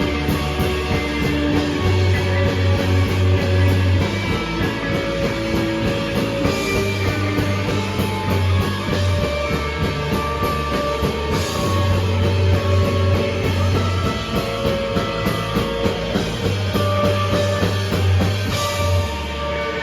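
A rock band playing live: guitars, bass guitar and a drum kit, with drum hits packed close together over held bass notes.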